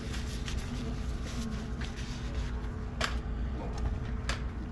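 Light clicks and knocks from handling and wiping the oil filter housing cap, the sharpest about three seconds in and again near the end, over a steady low hum.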